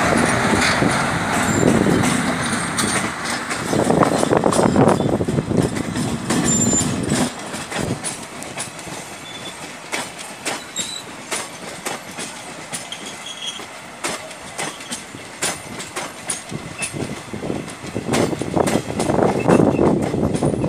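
Passenger train's coaches rolling past with a steady rumble and rapid clickety-clack of wheels over rail joints. It is louder in the first few seconds and again near the end.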